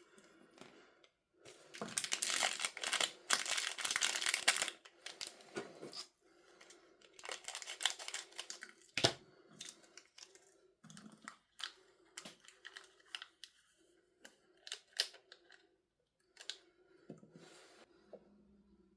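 Hands tearing and crinkling packaging for a few seconds, then scattered taps and clicks as the contents are handled, with one sharp click midway.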